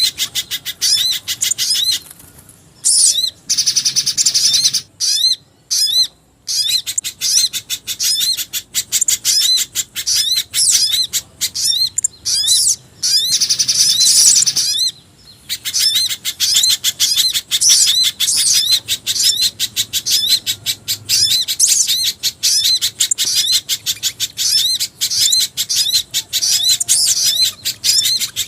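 Bird-lure recording of small birds calling, a mix of spiderhunter (pijantung gunung) and jingjing batu calls: fast, high-pitched chirps repeated about four times a second, with a few brief pauses.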